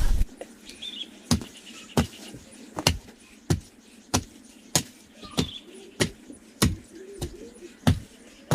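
Repeated sharp strikes of a tool on wood, evenly paced at about three every two seconds, with faint bird chirps twice.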